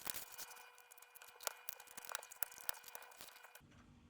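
Light plastic clicks and rustles of loose Lego pieces being handled, stopping about three and a half seconds in.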